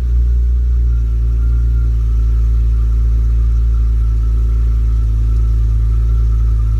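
BMW E46 M3's S54 straight-six idling steadily through an Arqray aftermarket exhaust, with a deep, even low note.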